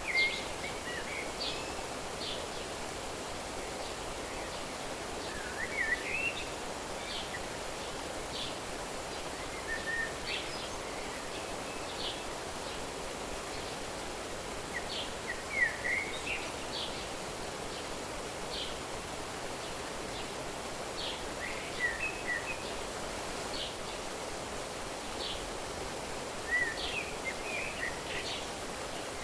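Outdoor nature ambience: songbirds chirping in short bursts of quick, high sweeping notes every few seconds, over a steady soft rushing hiss.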